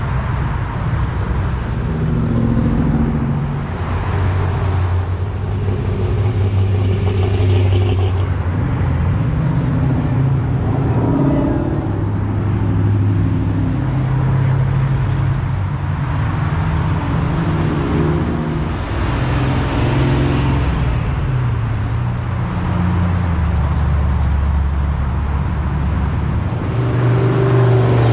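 Car engines running with road and traffic noise, the engine pitch shifting up and down every second or two.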